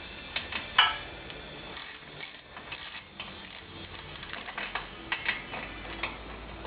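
Irregular metallic clicks and taps of hand tools working the bolts on a motorcycle exhaust silencer's end cap, with the sharpest click about a second in and a quick cluster of clicks later on.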